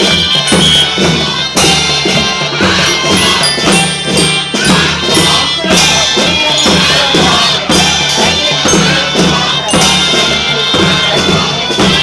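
Children's marching band playing a tune over a steady percussion beat of about two strikes a second.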